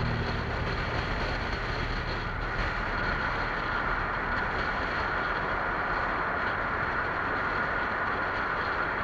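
Motorcycle engine running steadily at cruising speed, with steady wind and road noise from riding.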